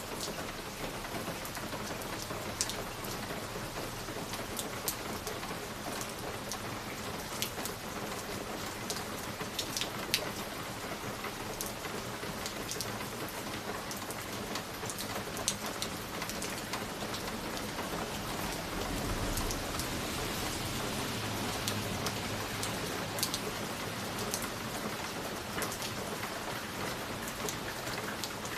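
Fireplace ambience: a steady hiss with scattered sharp crackles, and a low rumble that swells a little over two-thirds of the way through.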